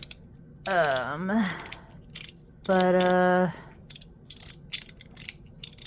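Ultem (PEI) fidget slider clicking through its detents as it is slid back and forth: a run of sharp, irregular clicks, several a second. A short hummed vocal tone is heard about one second in, and a steady held hum about three seconds in.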